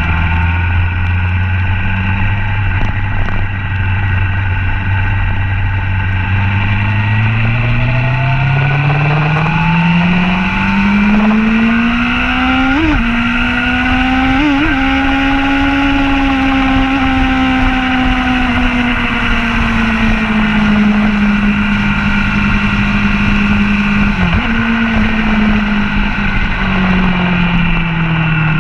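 Motorcycle engine heard from on board at speed, over constant wind rush. The engine note holds low, then climbs steadily under acceleration to a peak about halfway through, with two brief hitches in pitch, then falls slowly as the rider eases off, with another short dip later on and a lower note near the end.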